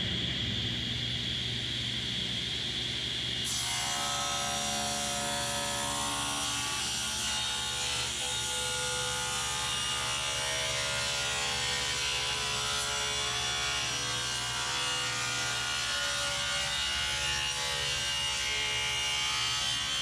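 Electric power tool running steadily against wooden boards, with a low motor hum underneath. The sound turns brighter and fuller about three and a half seconds in, as the tool bites into the wood.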